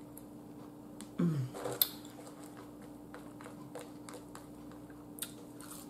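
A person quietly chewing a mouthful of shrimp and fries, with scattered soft mouth clicks and a short hummed 'mm' about a second in. A faint steady hum runs underneath.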